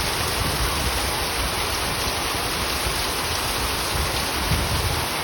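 Heavy rain pouring down, a steady, even hiss of a hard downpour.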